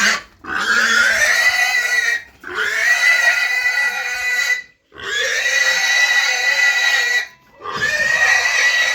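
A pig squealing loudly in long, high, sustained screams, each about two seconds, broken by short pauses: four in all. This is the distress squealing of a pig being forced onto a truck.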